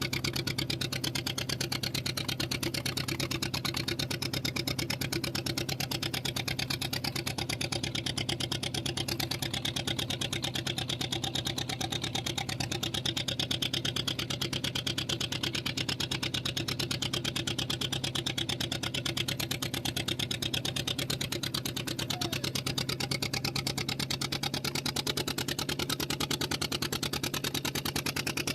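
A fishing boat's engine running steadily at low revs, a constant low hum with a fast, even pulse.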